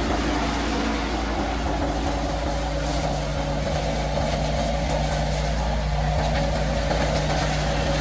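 A large engine running steadily at a constant speed, with a droning, even tone.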